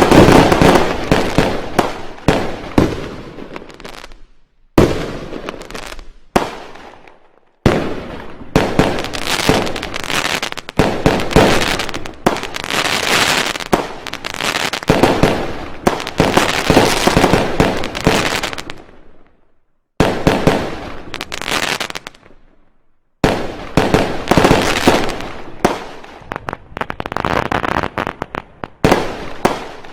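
Fireworks going off in dense volleys of bangs and crackles, in several runs that start abruptly and die away, with short silent breaks between them.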